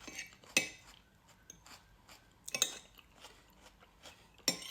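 Close-up chewing and mouth sounds of someone eating a buttered jacket potato, with a few sharper crackly bites, the loudest about half a second in, near the middle and near the end.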